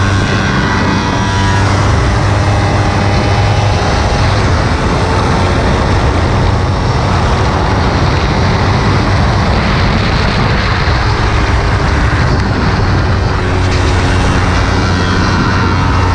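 Kawasaki Ninja 300's parallel-twin engine running at speed on track, heard over heavy wind rush on the onboard microphone. The engine note stands out near the start and again near the end; in between, wind noise dominates.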